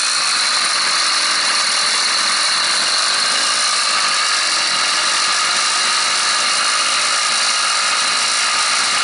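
80cc two-stroke bicycle engine kit running steadily at idle with a high-pitched buzz, its idle speed just adjusted.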